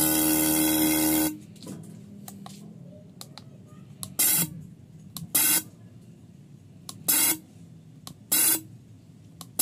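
Car horn sounding one long blast of about a second, then four short toots, as it is tested after a relay has been wired in.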